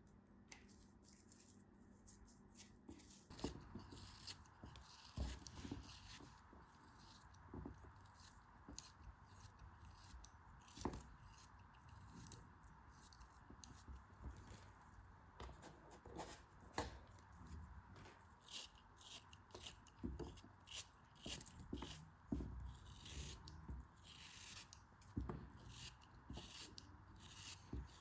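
Quiet, close-up crisp crackling and scraping from hands cutting, crushing or tearing a material, many sharp clicks in quick succession, starting about three seconds in.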